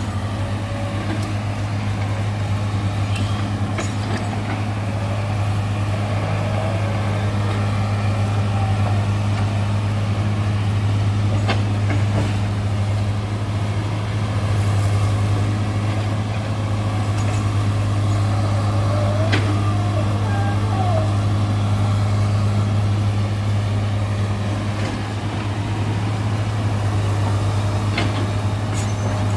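Heavy diesel engine running steadily, a low even hum, with a few sharp knocks.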